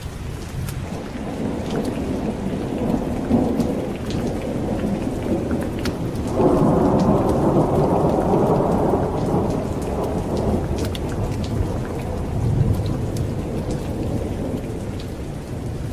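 Steady heavy rain with rolling thunder: a low rumble swells early on, then a louder thunderclap breaks suddenly about six seconds in and rumbles for several seconds before easing off. Scattered sharp ticks sound over the rain throughout.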